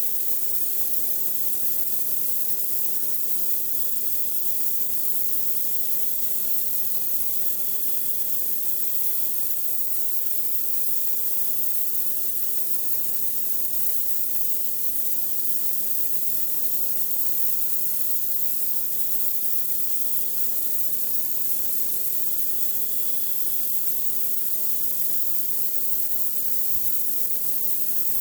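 High-pressure water from a pressure washer spraying steadily onto a driveway, a continuous hiss, with the machine's steady hum underneath.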